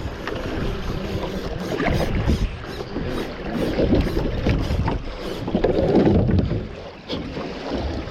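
Water swishing and splashing around a kayak moving down a river, swelling about every two seconds, with wind rumbling on the microphone.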